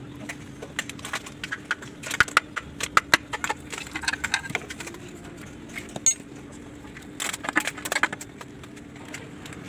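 Metal tools and engine parts clinking and knocking against each other in irregular clusters, over a steady low hum.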